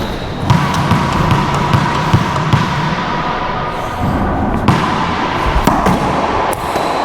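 Racquetball rally: a rubber ball cracks sharply off racquets and the court walls and floor again and again, each hit ringing in the enclosed court. A steady hum runs underneath for most of the rally.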